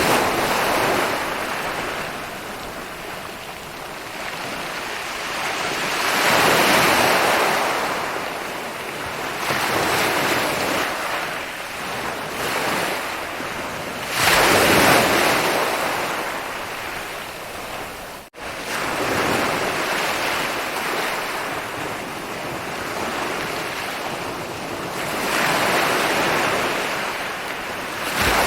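Ocean waves breaking on a beach: a continuous wash of surf that swells every few seconds as each wave rolls in, the loudest break about fourteen seconds in. The sound drops out for an instant about eighteen seconds in.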